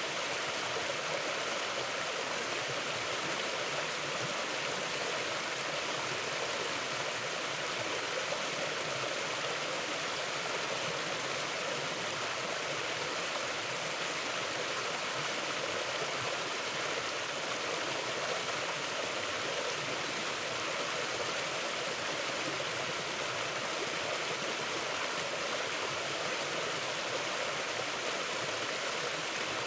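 River water flowing steadily over rocks, an even rushing and babbling with no change.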